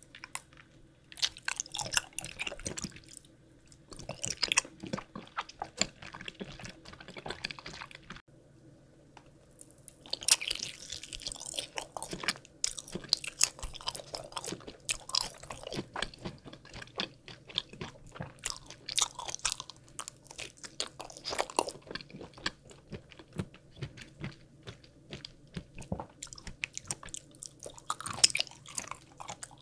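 Close-miked chewing and biting of jelly candies: dense runs of small sharp clicks and crunches in bouts, broken by short pauses.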